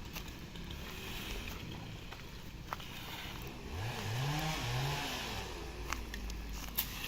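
Stihl chainsaw engine running at low speed, then revved up twice in quick succession about four seconds in, with a few sharp clicks.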